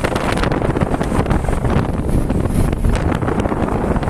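Wind buffeting the microphone, with the road and engine noise of a moving vehicle beneath it.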